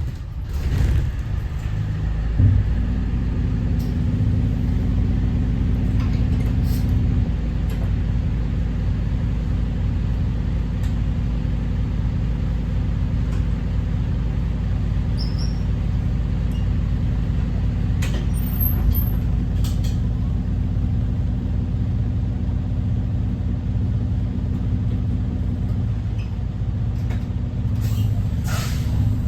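Thomas Saf-T-Liner C2 school bus's Detroit DD5 diesel engine running with a steady low rumble, coming up loud in the first two seconds. A few brief sharp clicks or hisses sound over it, twice in the second half.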